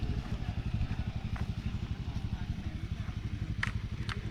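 A vehicle engine idling with a low, rapid, even pulse. Two short clicks come near the end.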